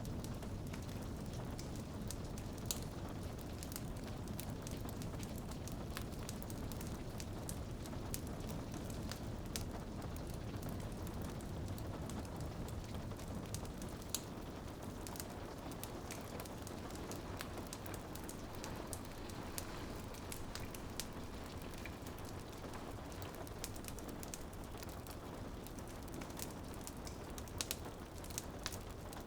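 Steady rain pattering on a window, with a wood fire crackling and popping in many short, sharp snaps throughout.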